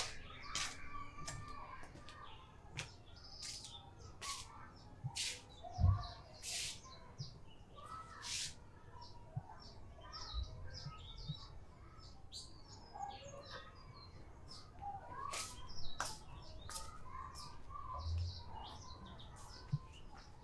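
Small birds chirping in short, scattered high calls against a quiet background, with a dull thump about six seconds in and another near eighteen seconds.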